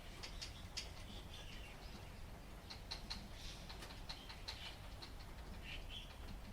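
Light rain: scattered drops ticking and dripping at an irregular pace over a low, steady rumble, with a few faint high chirps.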